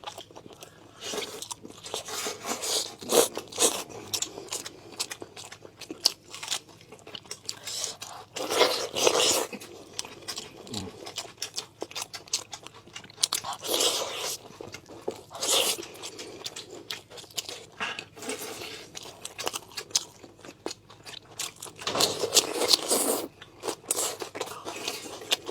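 A person chewing and biting food close to the microphone, with irregular crunches and louder bites every few seconds.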